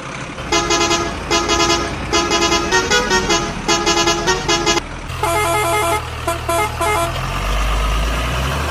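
A multi-note musical vehicle horn playing a tune in short rapid toots, then a second run of choppier toots. A low steady engine hum sits under the second run and carries on after the toots stop.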